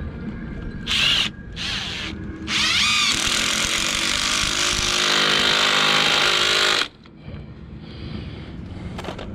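Power drill triggered in two short bursts, then run for about four seconds: it whines up to speed, its pitch dropping as it bites in, and it cuts off suddenly.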